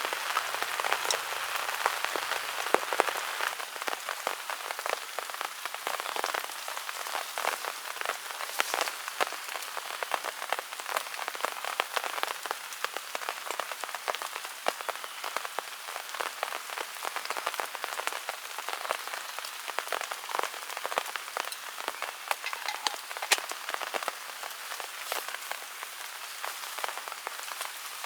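Steady rain falling, with many separate drops striking close by at an irregular, dense pace.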